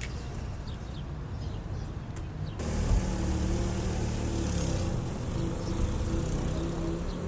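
Low rumble, then from about two and a half seconds in a steady motor-vehicle drone with a low humming tone over noise.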